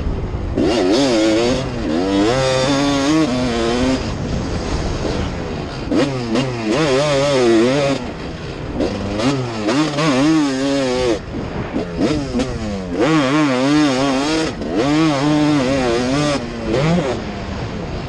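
Kawasaki KX450F dirt bike's single-cylinder four-stroke engine revving hard in repeated bursts as it is ridden, the pitch climbing and dropping with the throttle, easing off briefly several times.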